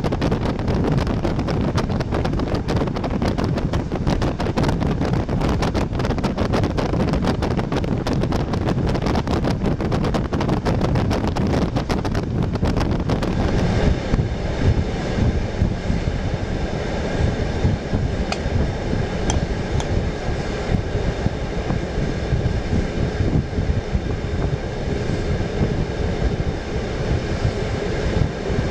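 Passenger train's running noise heard on board: a steady rumble with wind rushing over the microphone. About halfway through the sound changes, the crackly rush drops away and a steadier rumble with faint high steady tones takes over.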